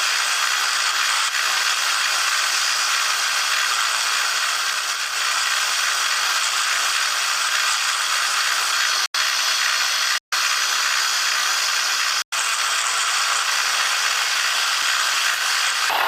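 Machine spindle running with an end mill ground to a countersink taper, cutting countersinks into drilled holes in aluminium; a steady, high-pitched hiss with three brief breaks near the end.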